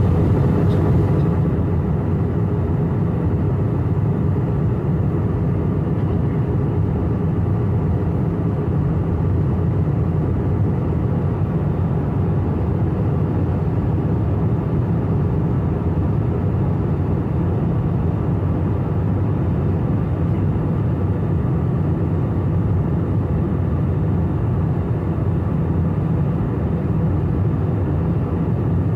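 Steady drone of an airplane in flight heard from inside the cabin: a deep, even engine and airflow noise with a few faint steady tones, unchanging throughout.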